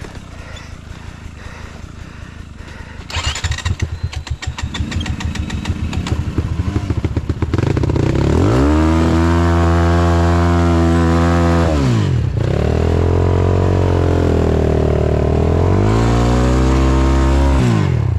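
Off-road motorcycle engine idling with some clatter, then revved hard and held at high revs twice, with a sharp dip in between and a drop near the end, as it struggles on a slippery clay climb.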